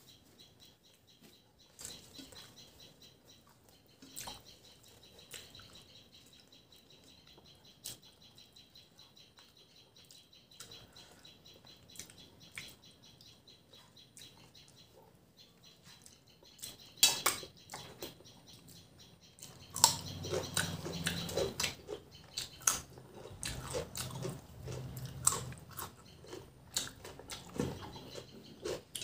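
Close-miked chewing and mouth clicks of a person eating a rice meal by hand, with fingers gathering the last food from a steel plate. The sounds are faint and scattered at first, then louder and busier from about two-thirds of the way in.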